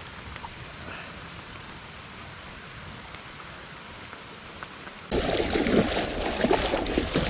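Steady rain and creek water, a soft even hiss with scattered drop ticks. About five seconds in, the sound jumps abruptly to a much louder, rough rushing noise full of crackles.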